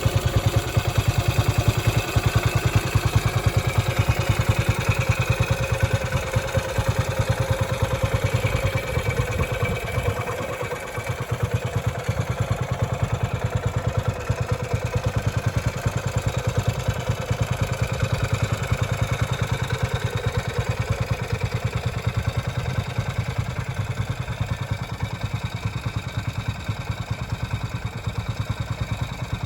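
Ducati 350 Desmo's single-cylinder engine idling with an even beat of firing pulses. The level dips briefly about ten seconds in, then the engine settles back to a steady idle.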